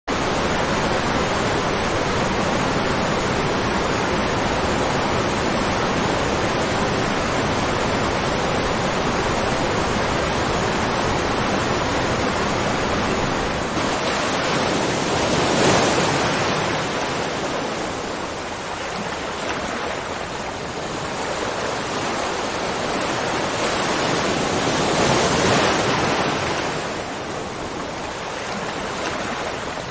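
Waterfall: a steady rush of falling water that starts abruptly, swelling louder twice, about halfway through and near the end.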